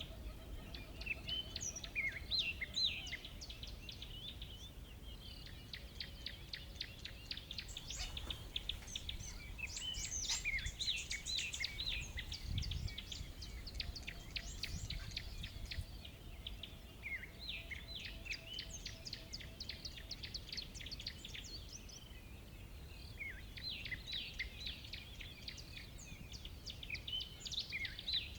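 Many wild birds chirping and singing at once, quick high chirps and trills overlapping in a continuous chorus over a low steady rumble.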